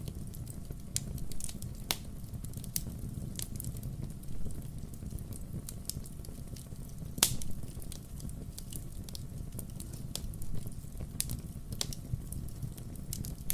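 Wood fire crackling: irregular sharp pops and snaps of burning logs over a low steady rumble, with one louder pop about seven seconds in.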